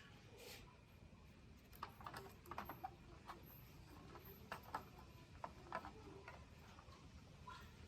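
Faint, irregular small clicks and taps, from small parts or tools being handled in hand work on a digital keyboard.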